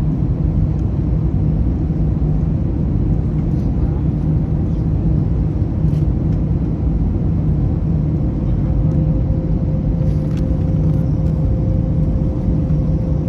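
Steady cabin rumble of an Airbus A321neo airliner: engine and airflow noise heard from a passenger seat, with a steady low hum and a faint higher tone that comes in about two-thirds of the way through.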